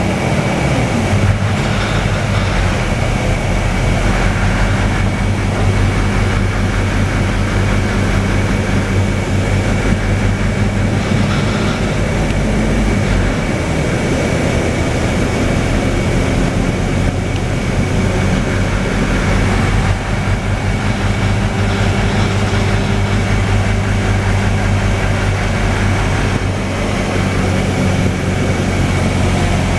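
Scania K320UA city bus heard from inside the passenger cabin while driving: the diesel engine drones steadily with road noise, and its pitch drops in the first couple of seconds and shifts now and then. A thin, steady high whine runs over it.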